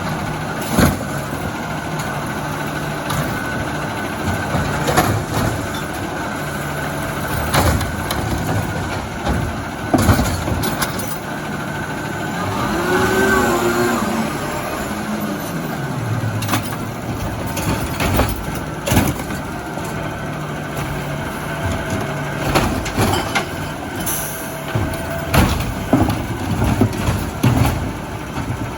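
Diesel Autocar ACX garbage truck with a Bridgeport Ranger body running, its engine revving up and back down near the middle, with several sharp bangs and clanks, more of them toward the end.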